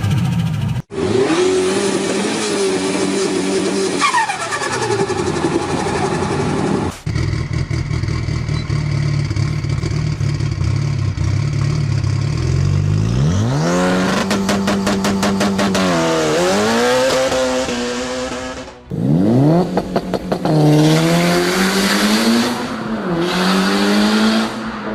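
Tuned turbocharged car engines revving in several clips joined by abrupt cuts. Each rev climbs and falls in pitch, and a falling whistle is heard about four seconds in.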